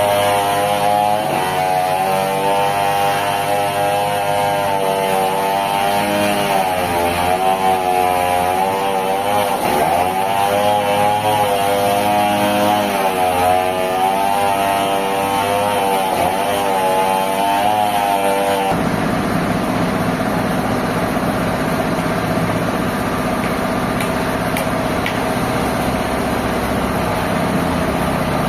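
Sawmill machinery running, with an engine note whose pitch dips and recovers several times, as a motor does under changing cutting load. About two-thirds of the way in the sound changes suddenly to a noisier, steadier machine sound.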